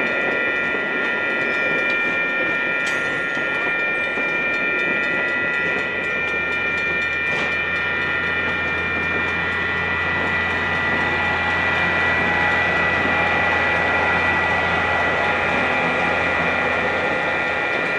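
Train running by: a steady rail rumble with several high, steady tones over it, and a low drone that comes in about six seconds in and fades near the end.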